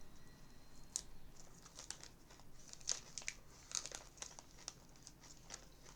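Plastic salad bag crinkling as it is handled, a string of short, irregular crackles. A fan hums faintly underneath.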